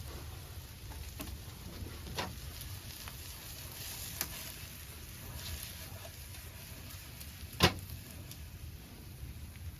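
Food sizzling in a pan, a steady hiss broken by a few sharp clicks, the loudest about three-quarters of the way through.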